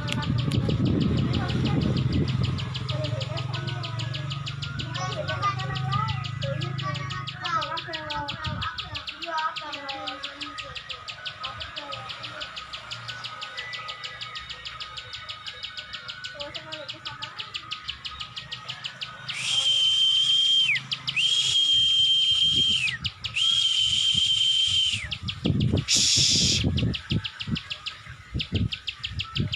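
Ciwah bird calling: a rapid, steady run of sharp clicks. Other small birds chirp and a low hum runs through the first nine seconds; near the end come three loud hissing notes of about a second and a half each, carrying a steady whistle-like tone, then a shorter one.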